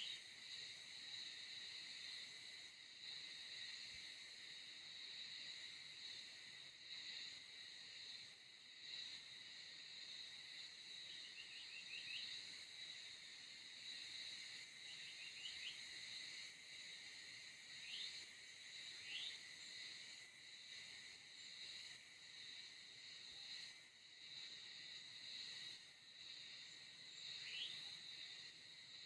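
Faint, steady chorus of crickets and other insects trilling at a high pitch, with a few brief chirps now and then.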